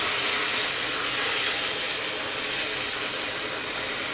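Spice masala frying in oil in a nonstick wok, sizzling and hissing steadily with about half a cup of water just added, stirred with a wooden spatula. The hiss eases off slightly over the seconds.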